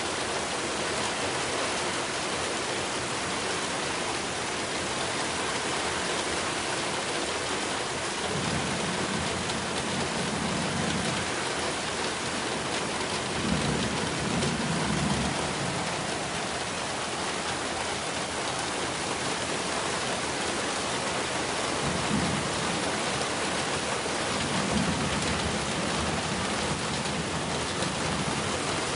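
Heavy rain falling steadily, a dense, even hiss of downpour. A few low rumbles rise over it for a second or two at a time.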